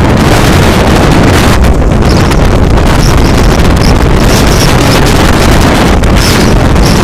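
Blizzard wind blasting straight into the microphone: a loud, steady buffeting roar that overloads the recording, heaviest in the low end.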